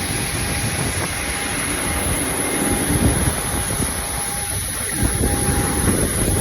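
Steady low rumble of a moving vehicle, with a faint on-and-off tone above it; it grows slightly louder about five seconds in.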